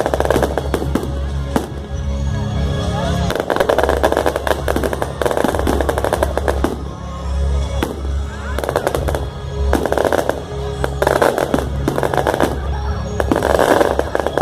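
Fireworks crackling and popping in rapid volleys, thick clusters of cracks coming and going every second or two, over loud music with a steady bass line.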